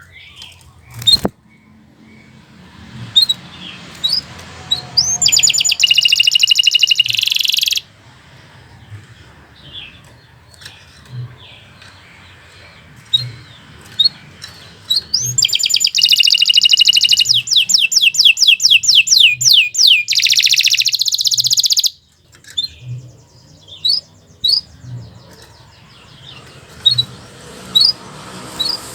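Domestic canary singing: short high chirps broken by two long, loud, rapid trills, the second running into a buzzing roll about two-thirds of the way through.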